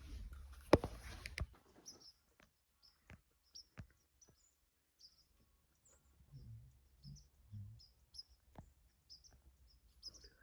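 Faint bird chirps, short and high, repeated about once or twice a second, with scattered sharp clicks and one loud knock about a second in.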